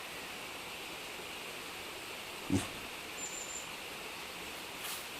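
Steady outdoor background hiss with a single short low thump about halfway through, followed by a brief thin high chirp.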